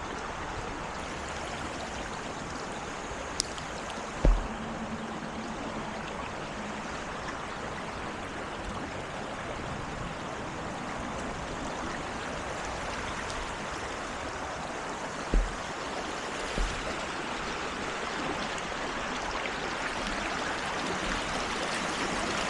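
Creek water running steadily over rocks, rising a little near the end, with a few brief low thumps.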